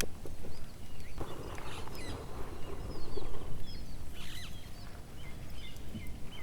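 Small birds chirping repeatedly in short, quick calls over a steady low rumble, with a spell of rustling noise about a second in.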